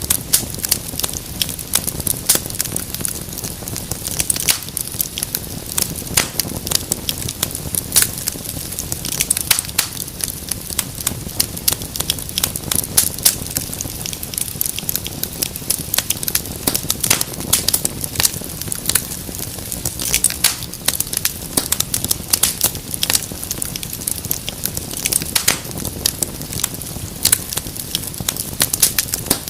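Wood fire crackling in a fireplace: a steady stream of sharp pops and snaps over a low, even rumble of the flames.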